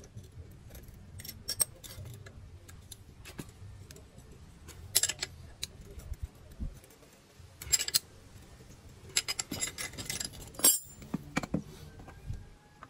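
Metal hand tools clinking and clicking against the shock absorber's mount nut and hardware as the nut is tightened: irregular sharp clinks, a few louder clusters about five, eight and ten seconds in.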